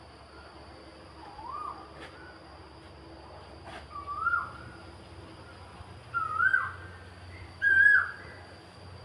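Four whistled calls a couple of seconds apart, each a short note that rises, then dips. Each call is louder than the one before. A steady low hum runs underneath.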